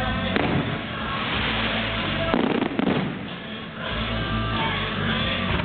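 Aerial fireworks shells bursting with sharp bangs, the loudest cluster about two and a half to three seconds in, over music playing throughout.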